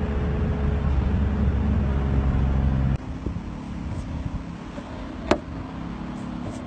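Car engine running, a loud steady low hum heard inside the cabin. It cuts abruptly to a quieter engine rumble, with one short sharp squeak about five seconds in.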